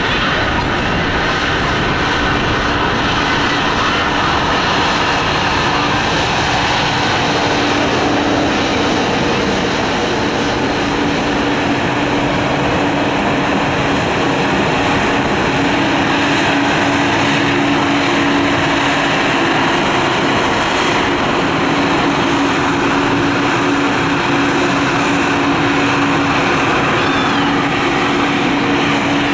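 A Bombardier CS100's Pratt & Whitney PW1500G geared turbofan engines running at taxi power, a steady loud jet rush with a constant low tone through it.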